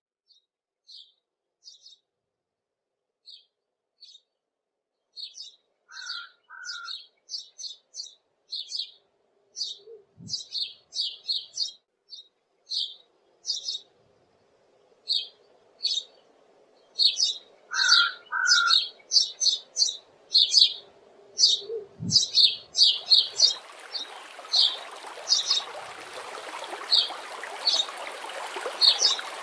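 Small birds chirping in quick, short high notes, sparse at first and then busier, with a lower two-note call twice. Running water fades in under the birdsong about two thirds of the way through.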